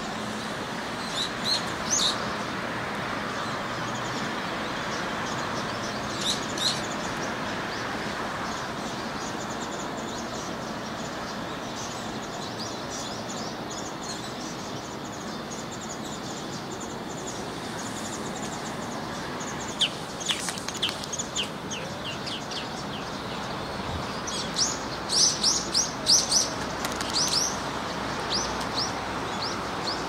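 Small birds chirping in short, high, downward-sliding notes, scattered through, with a loud, rapid run of chirps about three-quarters of the way through. A steady outdoor background hiss lies under them.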